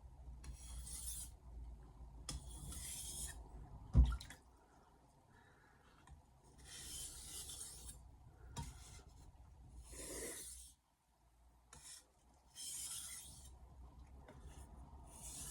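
Misono 210 mm Japanese kitchen knife blade scraped across a whetstone in separate sharpening strokes, about six hissing rasps, with one sharp knock about four seconds in.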